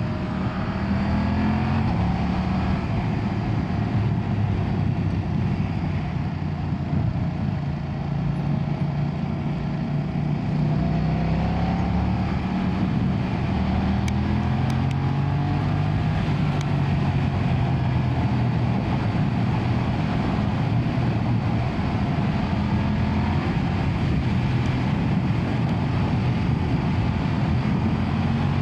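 BMW F900R's 895cc parallel-twin engine running under way, its pitch rising and falling several times as the throttle opens and closes.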